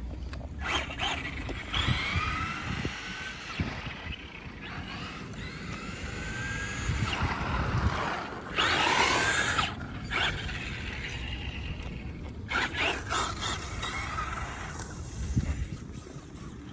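Traxxas 2WD Slash RC truck's electric motor whining in runs, its pitch rising and falling as the truck speeds up and slows, geared with an 86-tooth spur gear on a 2S LiPo. A louder rush of noise comes about nine seconds in.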